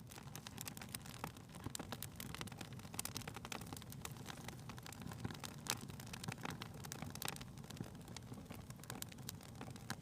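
Wood fire crackling in a fireplace: a steady low rumble of burning with frequent irregular pops and snaps.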